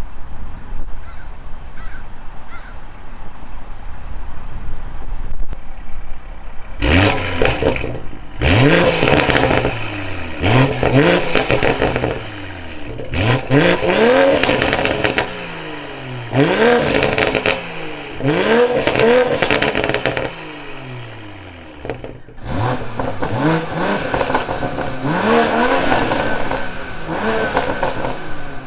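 BMW M340i's turbocharged 3.0-litre B58 inline-six idling, then revved in a long series of quick blips, each rise in pitch followed by a falling decay, with exhaust crackles as the revs drop.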